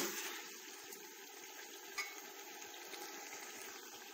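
Chicken and masala sizzling and bubbling in oil in a pan while still being fried down (bhuna), with a single light click about two seconds in.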